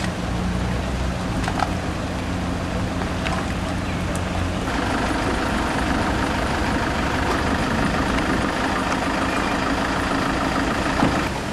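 A steady engine hum under a rushing noise of wind and rain; about four and a half seconds in the hum drops away and the rushing grows louder.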